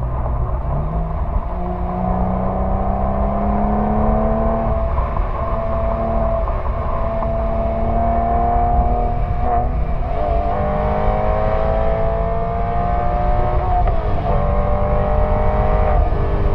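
Porsche 911 (997) flat-six through its sport exhaust, heard right at the tailpipe while accelerating through the gears of the manual gearbox: the exhaust note climbs steadily, drops at an upshift about ten seconds in and again about fourteen seconds in, then climbs once more.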